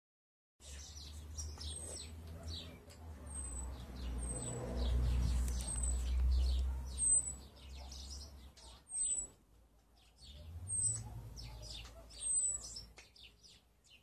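Small birds chirping, one repeating a short, very high, falling call about once a second among other thin chirps, over a low rumble that swells in the middle.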